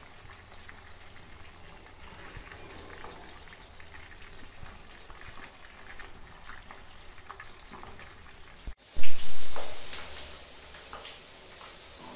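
Marinated chicken pieces deep-frying in hot oil, a steady sizzle with scattered small crackles. About nine seconds in, after a brief break, a much louder rush of noise comes in and fades away over about a second.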